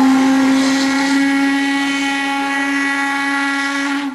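Steam locomotive whistle of BDZ 46.03 sounding one long, steady blast, cutting off near the end.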